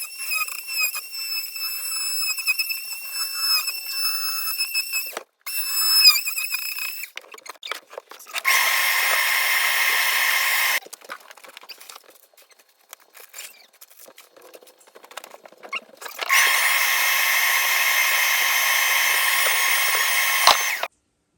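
Small power tool running in bursts: a high whine with short breaks for the first seven seconds or so, then two steady runs of about two and four seconds with quieter clicks and knocks between them.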